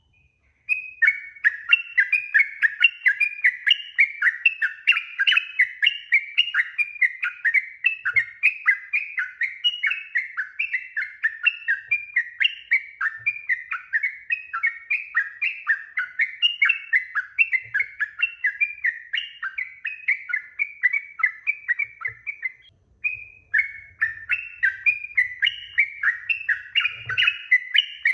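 Yellow-vented bulbul (trucuk) singing a long, fast run of bubbling, chattering notes, about three a second. It breaks off briefly near the end and then starts again.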